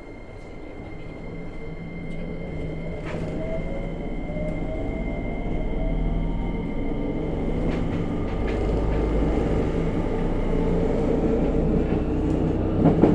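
JR Kyushu 303 series EMU heard from directly above a motor bogie while accelerating, its traction-motor whine rising in pitch as the running noise grows louder. A growl from around the motor and heavy vibration come with the motor's rotation: the fault that makes this car an abnormal-noise car. A brief knock is heard near the end.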